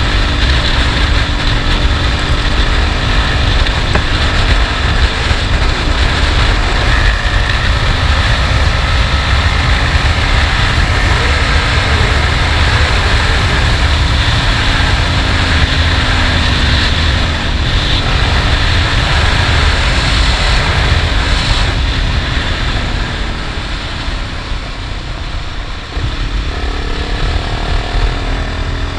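Honda XRE 300's single-cylinder four-stroke engine running under way, with heavy wind rush on the microphone. The engine eases off about three quarters through, then pulls again with a rising pitch near the end.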